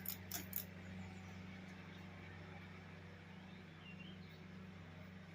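Hunter ceiling fan running on medium speed with a quiet steady low hum; a few light clicks of the swinging pull chain in the first half second.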